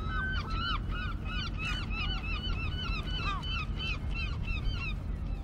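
Birds calling in a fast run of short arched squawks, about three or four a second, over a steady low rumble.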